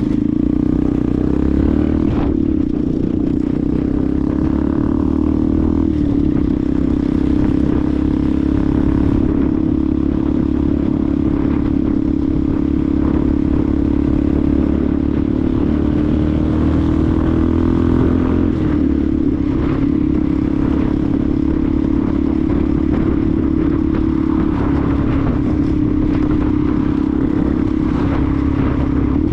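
Benelli TNT 125's single-cylinder four-stroke engine running steadily under way, its pitch shifting only slightly now and then, over a low rumble of wind and road.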